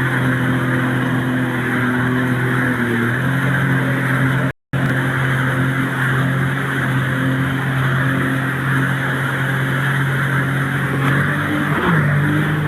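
A motor engine running steadily under a constant rush of wind or water noise. Its pitch shifts a little a few seconds in and again near the end, and the sound drops out briefly about four and a half seconds in.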